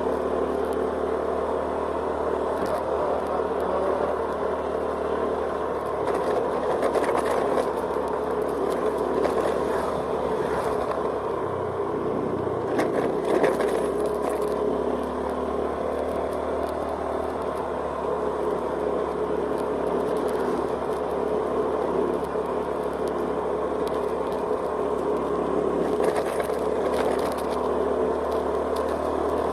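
Steady engine and road noise of a vehicle travelling along a road. The low hum dips briefly about twelve seconds in.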